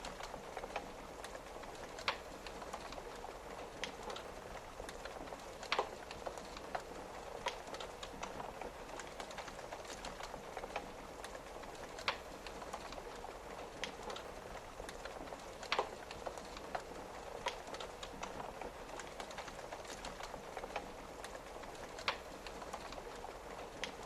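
Wood fire crackling, with sharp pops at irregular intervals, a few louder ones, over a steady patter of rain on a window.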